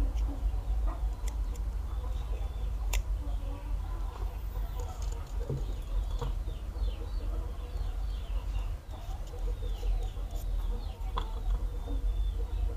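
Birds chirping in the background, many short falling chirps, over a steady low rumble, with a few sharp clicks, the loudest about three seconds in.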